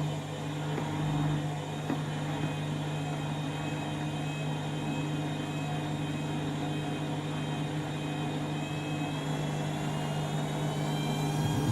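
Candy washing machine's drum motor running steadily in a distribution spin, a constant hum and whine, its pitch rising slightly near the end.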